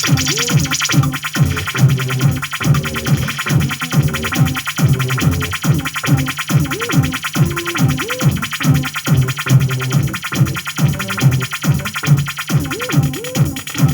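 Electronic sound from an audio mixing desk patched in unusual connections: a steady, fast pulsing rhythm with repeated low swooping tones that rise and fall, over a dense buzzy hiss.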